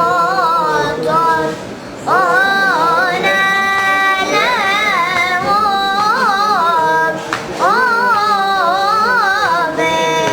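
A child singing in a high voice, holding long notes and running through wavering, ornamented melodic turns, with two short breaks for breath.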